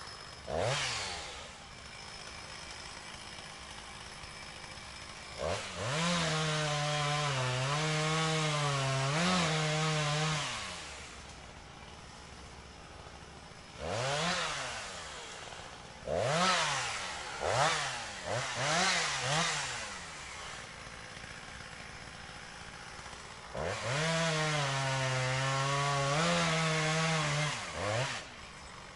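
Gas chainsaw idling and blipping its throttle, then running at full revs for several seconds twice, its pitch sagging and recovering as it bogs under load, as in cutting wood, and dropping back to idle after each run.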